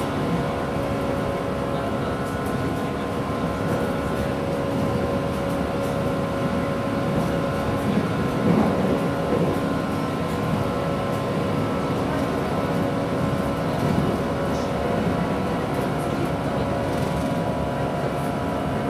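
Inside a 169-series electric train running at speed: a steady rumble of wheels on rail with a constant hum from the running gear.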